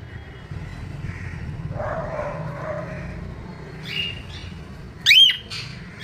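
Caged pet parrots calling: a few short calls, then one loud, sharp call about five seconds in, over a steady low hum.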